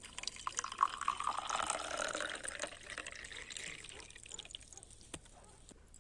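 Liquid being poured into a vessel, the pitch rising steadily as it fills, then tailing off after about four seconds. A single click comes near the end.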